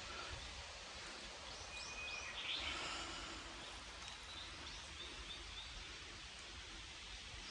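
Small birds singing on a mountainside in short high chirps and whistles, over a steady hiss of wind in the trees. The loudest phrase comes about two and a half seconds in, and a quick run of about five notes follows near four seconds.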